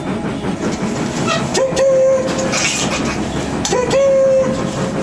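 Recorded sound of a running train: a steady clatter of wheels and machinery, with two whistle blasts of about a second each, the first about one and a half seconds in and the second near the four-second mark.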